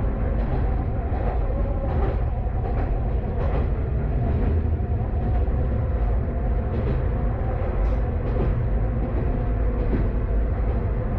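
Kanto Railway KiHa 532 diesel railcar running along the line, heard from inside the car: a steady engine and wheel rumble with light clicks from the rails now and then.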